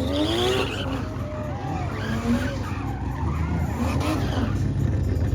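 Car tyres squealing in a burnout or donuts, the squeal wavering up and down in pitch over a steady engine rumble.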